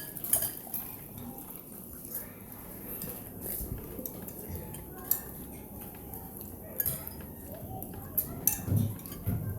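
Spoons and forks clinking and scraping against bowls while eating, in scattered separate clinks.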